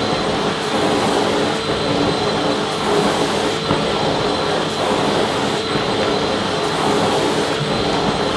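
Vacuum cleaner running steadily: an even rushing noise with a steady hum and a faint high whine.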